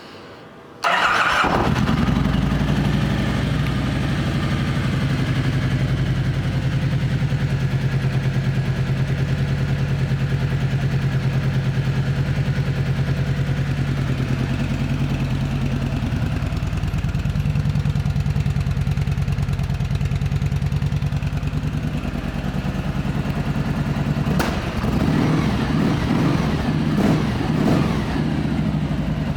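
2009 Kawasaki Vulcan Voyager 1700's V-twin engine starting about a second in and catching at once, then idling steadily. A click about 24 seconds in, after which the running is less even.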